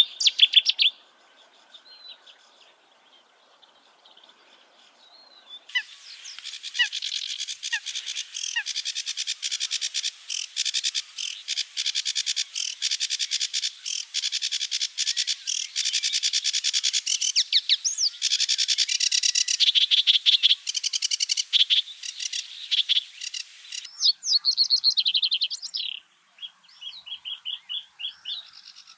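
Small songbirds chirping and twittering in quick, high series. It is faint for the first few seconds, then a dense chorus starts abruptly at about six seconds. The chorus breaks off around 24 seconds, leaving sparser runs of chirps.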